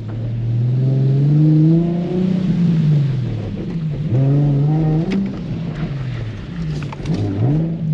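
Nissan 350Z's 3.5-litre V6 engine revving up and down repeatedly under throttle as the car is slid on wet pavement: revs climb over the first two seconds, drop, climb again about four seconds in, and dip and rise once more near the end.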